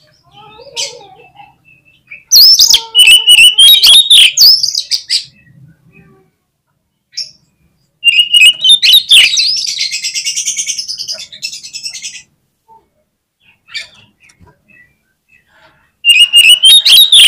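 Oriental magpie-robin (kacer) singing loudly in three bursts of fast, varied whistled phrases, separated by short pauses; the middle burst includes a rapid rattling trill.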